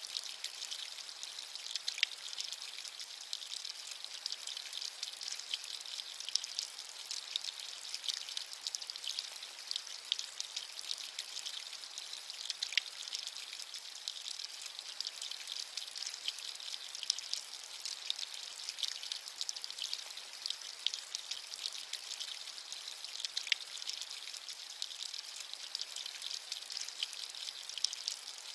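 Steady rain with a dense patter of fine drops, hissy and high-pitched with almost no low rumble, and a few louder individual drops now and then.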